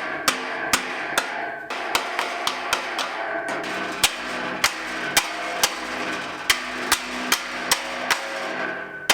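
Hammer blows on metal, about two a second, with the metal ringing on between blows, as a gate's hinge nut is knocked loose to free the gate from its hinge.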